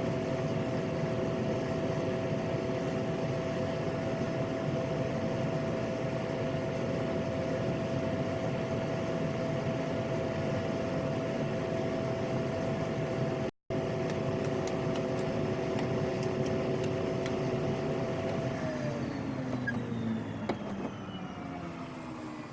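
PAC 750XL's single PT6 turboprop engine and propeller running steadily in the cockpit, then winding down in pitch over the last few seconds as power comes off.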